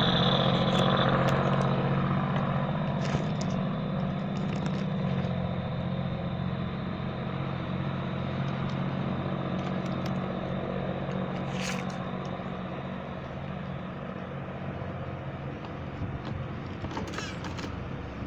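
An engine idling with a steady low hum that slowly grows quieter, with a few faint clicks and scrapes over it.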